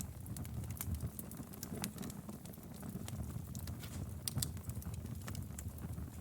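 Wood fire burning in a fireplace: a steady low rumble of flames with many sharp, irregular crackles and pops from the firewood.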